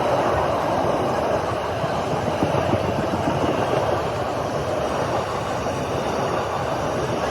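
Indian Railways train running past on the tracks: a steady, continuous noise of wheels on rail, with no horn.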